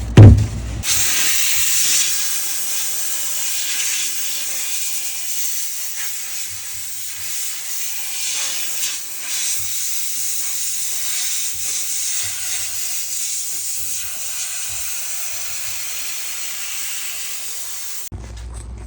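Dirt Devil handheld steamer jetting steam: a steady high hiss that starts about a second in, just after a thump, and cuts off suddenly near the end.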